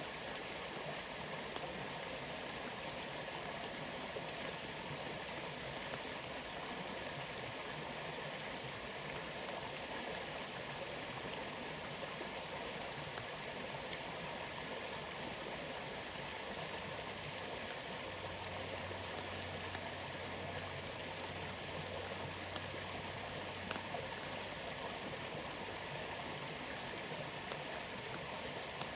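Waterfall in a rainforest: a steady, even rush of falling and flowing water.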